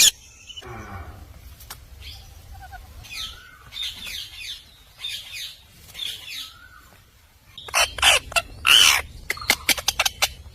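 Indian ringneck parrot calling: a series of short, high chirps that sweep up in pitch, then a burst of loud, harsh squawks about eight seconds in.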